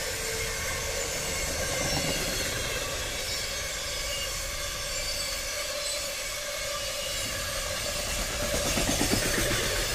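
Container wagons of a long freight train rolling past on the rails: a steady rumble and clatter of wheels on track, with a faint high wheel squeal that fades in the first second.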